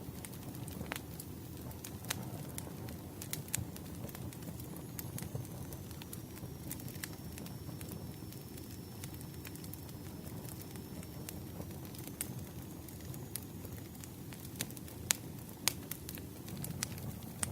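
Campfire crackling: a steady low rumble of burning wood with irregular sharp pops and snaps, a few louder ones near the end.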